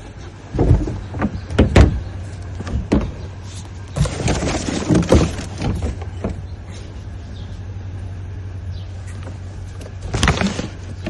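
Rummaging noises of items being handled and moved: a few knocks and thumps about a second in, then rustling and handling around four to five seconds in and again near the end, over a steady low hum.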